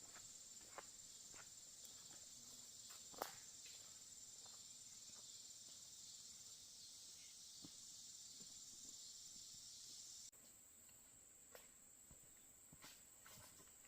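Faint, scattered footsteps on rock and dry ground along a creek bed, over a steady high-pitched drone of insects that cuts off abruptly about ten seconds in.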